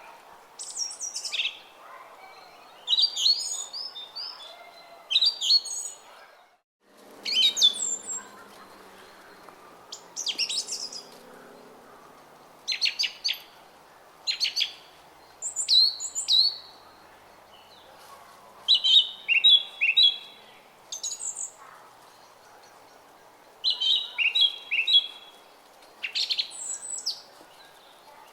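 Songbirds chirping and singing in short, repeated phrases of quick high notes over the steady babble of a small stream. All sound cuts out briefly about six and a half seconds in.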